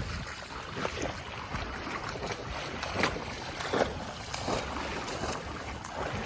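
Floodwater splashing several times at irregular intervals over a steady wash of wind on the microphone.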